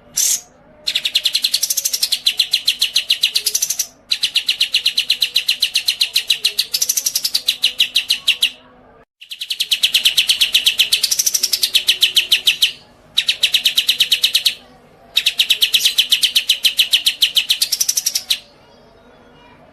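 A cage songbird singing long bouts of very rapid, high trilling, each run lasting a few seconds, with short pauses between runs and a few short chirps at the start.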